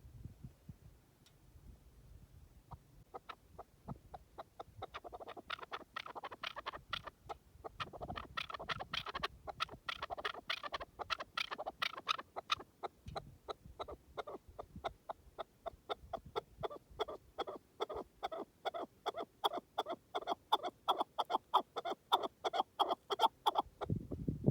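A partridge (keklik) calling in a long run of short, rapid clucking notes. The run starts about three seconds in and grows louder and faster, reaching three or four notes a second near the end.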